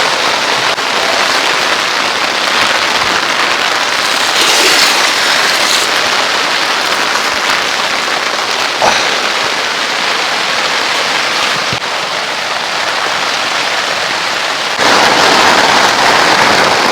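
Heavy downpour pelting the fabric of a BUNDOK Solo Dome tent, heard from inside the tent, with a couple of faint knocks; the rain grows heavier about fifteen seconds in.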